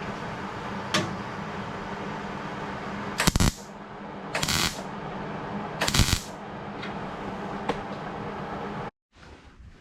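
MIG welder laying three short tack welds on sheet-metal patch panels, each a brief crackling burst, one to one and a half seconds apart, over a steady hum.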